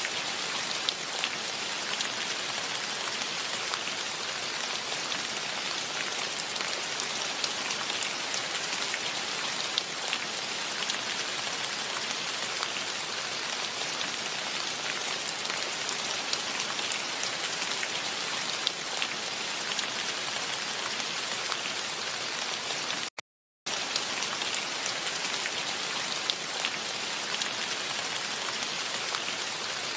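Steady rain falling, a dense even hiss with scattered ticks of single drops. About three-quarters of the way through, the sound cuts out completely for a fraction of a second, then the rain resumes.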